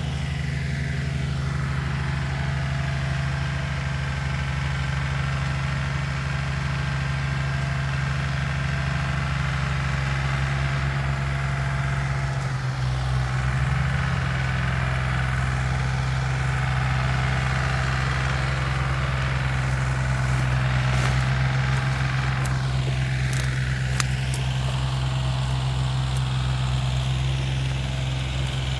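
Tractor diesel engine running steadily under load, its pitch shifting about twelve seconds in.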